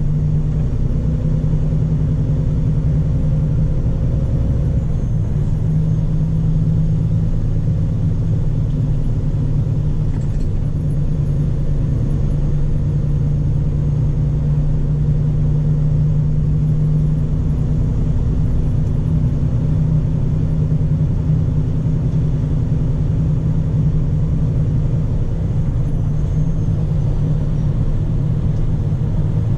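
Scania P400 truck's diesel engine running with a steady low drone that holds an even pitch throughout.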